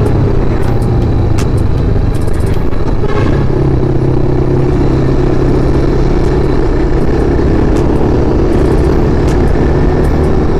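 Motorcycle engine running at a steady cruise, heard from the rider's own bike, a TVS Apache RR 310 single-cylinder. The engine note holds an even pitch throughout.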